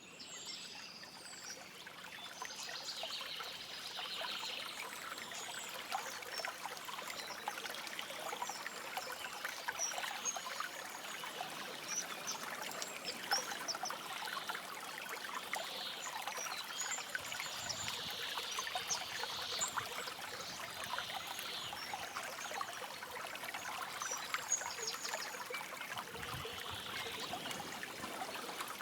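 Small stream trickling and babbling over stones, fading in over the first few seconds and then running steadily, with short high bird chirps scattered throughout.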